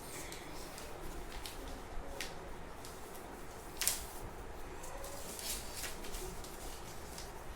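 Sheet of paper rustling and crackling as it is handled and folded, with scattered short crinkles and one sharper crackle about four seconds in.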